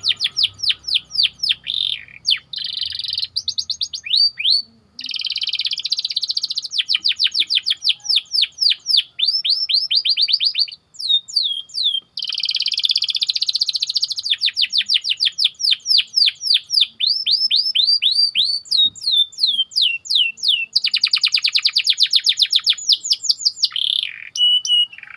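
Domestic canary singing a long song of fast, tight trills: runs of sweeping notes at about ten a second, alternating with dense buzzy rolls, broken by a couple of short pauses.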